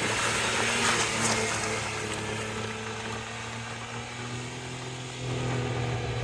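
Rear-wheel-drive car circling on snow, its engine held at steady revs, with a hiss over it in the first two seconds. The engine gets a little louder about five seconds in.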